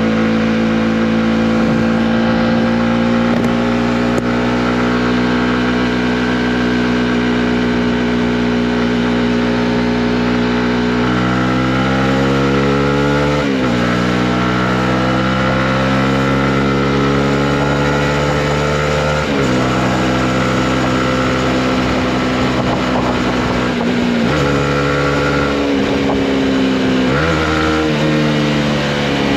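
Honda CB125R's single-cylinder four-stroke engine pulling the motorcycle along. It runs steadily at first, then the revs climb and fall back sharply several times as it changes gear.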